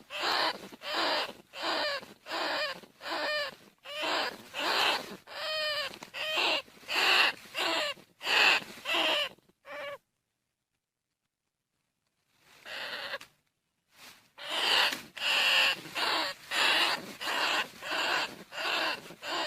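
Greater bandicoot rat calls: a rapid series of harsh, squeaky cries, about two a second, broken by a short silence about halfway through before starting again.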